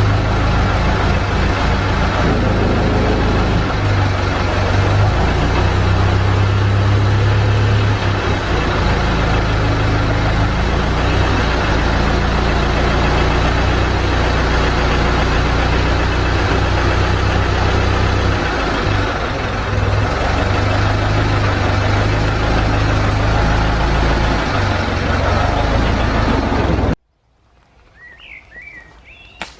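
1924 Dodge Brothers tourer's four-cylinder side-valve engine running at a steady idle, warming through after being started. The sound cuts off suddenly near the end, leaving a quiet background with a few faint chirps.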